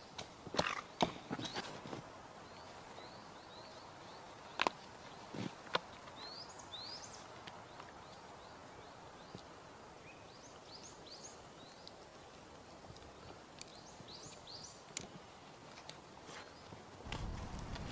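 Small birds chirping in short rising notes, with a few sharp knocks in the first six seconds over faint outdoor background noise; a low rush of noise comes in near the end.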